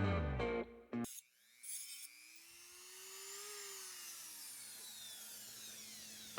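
A small power tool cutting off the excess end of a metal exhaust clamp band. Near the start its motor winds down in pitch, and after a short break it runs again, rising in pitch and then slowly falling.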